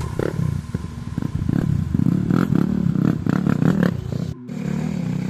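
Dirt bike engine revving up and down in uneven bursts of throttle, with scattered knocks and clatter, breaking off briefly about four seconds in.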